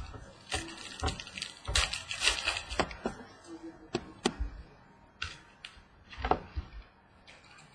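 Trading cards being handled and shuffled on a table: scattered light clicks and taps, with a short stretch of sliding and rustling about two seconds in.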